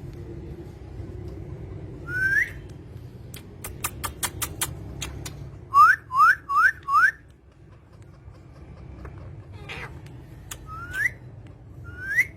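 Short rising whistles: one, then four in quick succession, then two more near the end. A quick run of sharp clicks comes between the first whistle and the group of four, over a low steady hum.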